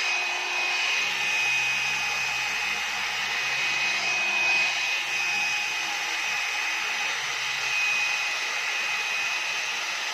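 One-step hot-air brush (hair dryer and styler) running steadily: blowing air with a constant high motor whine as it is worked through hair.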